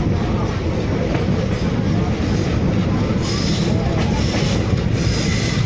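Passenger train running along the track: a steady, dense rumble of wheels on rails, with a faint high squeal from the wheels coming in about halfway through.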